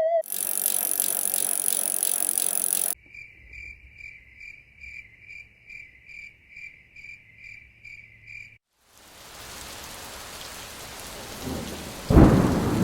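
A run of nature recordings: a loud high hiss, then a chirping call repeated about twice a second, then steady rain falling. About twelve seconds in, a rumble of thunder breaks in over the rain.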